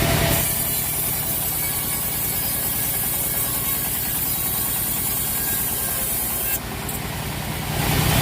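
Engine driving the sawmill, running steadily with an even low pulse. It grows louder and noisier near the end.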